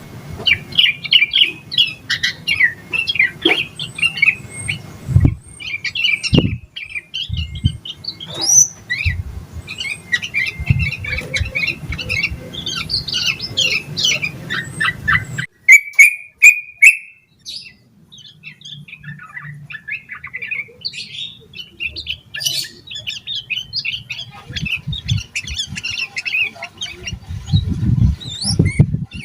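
Yellow-vented bulbul (trucukan) singing in fast, continuous chattering phrases. About halfway through the recording changes abruptly, with a few sharp clicks, before the song resumes.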